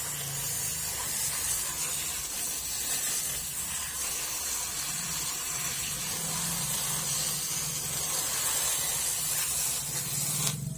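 High-pressure washer jet spraying water over a chainsaw's engine, a steady hiss with a low hum underneath.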